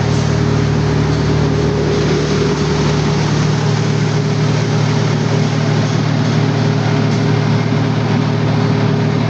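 Diesel engine of a 400 kVA Perkins generator set running steadily at constant speed during a load test, a loud even drone with a steady hum. A few seconds in, its deepest rumble drops away while the rest of the sound holds.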